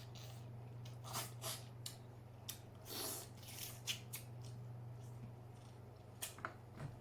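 Close-up eating sounds: wet chewing, lip smacks and small mouth clicks in irregular bursts, over a steady low hum.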